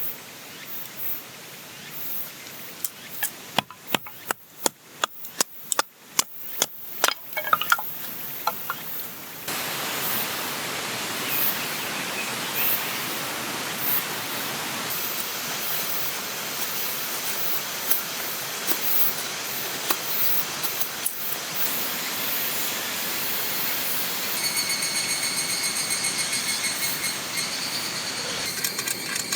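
A run of sharp knocks and taps, then a sudden switch to a steady rushing noise, with a pulsing high-pitched insect buzz joining near the end.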